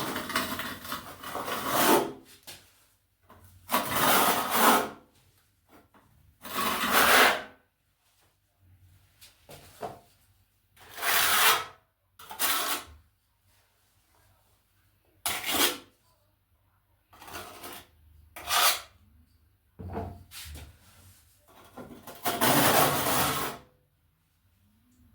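Trowel scraping tile adhesive across a wall of old tiles in repeated strokes, about ten of them, each a second or two long with short pauses between.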